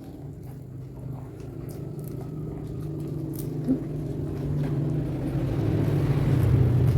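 Low engine hum of a passing motor vehicle, growing steadily louder over several seconds, with faint scattered clicks of chewing beneath it.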